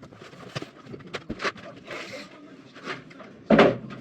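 Scraping and rubbing of boards and materials being handled, with small knocks and one heavy thump about three and a half seconds in.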